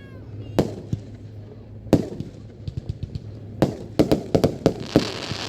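Fireworks going off: single sharp bangs a second or more apart, then a quick run of several bangs, and a crackling hiss near the end.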